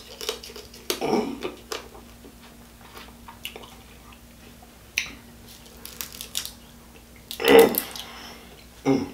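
Close-miked eating sounds of crab meat being chewed, with wet lip smacks and scattered short mouth clicks.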